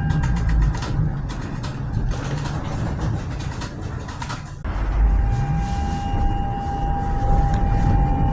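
Tram in motion: a steady low rumble of wheels on the rails, with a steady electric whine from the traction equipment and scattered clicks. The sound breaks off abruptly about halfway through and resumes with the whine.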